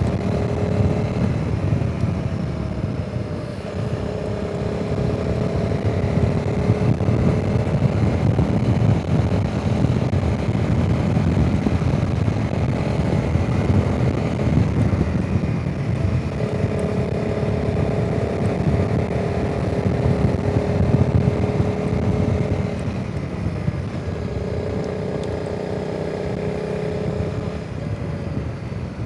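Honda CRF300 Rally's single-cylinder engine running while riding, its tone holding for spells of a few seconds and easing between them, under heavy wind noise on the microphone.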